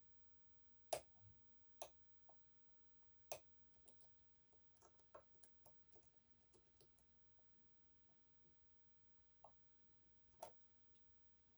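Faint, irregular metallic clicks and ticks of a short hook pick and tensioner working the unsprung sliders inside an EVVA 3KS high-security lock during picking. A few sharper clicks stand out, about a second in, near two seconds, just past three seconds and near the end, with lighter ticks between.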